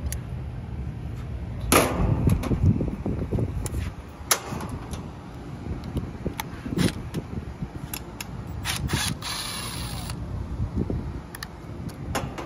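Hand work on condenser fan motor parts: irregular sharp clicks and metallic knocks, with a short scraping hiss about nine seconds in, over a steady low rumble.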